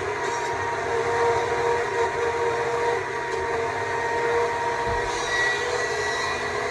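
Stihl MSA 200 C battery chainsaw running at a steady pitch, its electric motor and chain whining as it cuts into wood.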